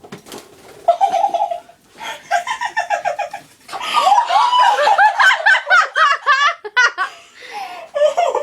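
Women laughing hard in repeated bursts of rapid pulses, loudest and most overlapping around the middle.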